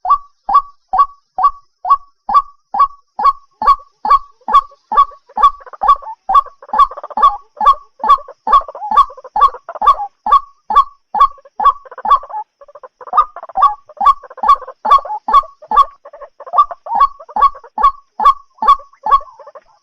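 White-breasted waterhen calling: a steady, evenly spaced series of short harsh notes, about two a second. From about five seconds in, a rougher, overlapping chorus of calls joins it for most of the stretch, dropping out briefly around twelve seconds.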